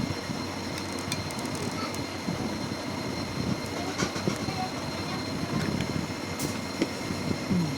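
Small battery-powered DC motor running steadily, a thin high whine over a constant whirring rumble.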